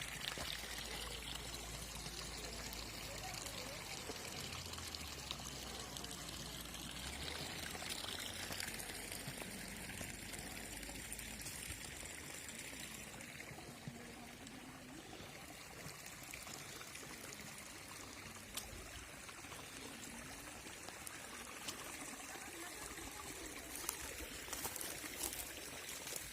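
Running water pouring and trickling steadily, changing in tone a few times as the listening position shifts.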